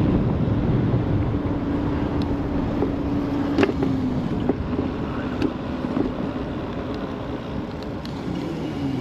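Wind rushing over the action-camera microphone while riding an ONYX RCR 80v electric moped, with the steady hum of its electric motor. The hum drops in pitch and fades about halfway through as the bike slows, and there are a few sharp clicks.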